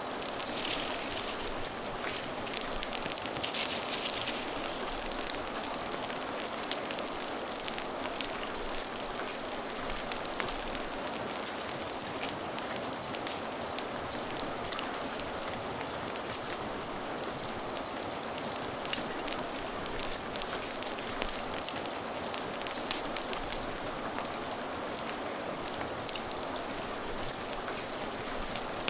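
Steady rain ambience with many small scattered clicks and pops, mixed with a crackling fire.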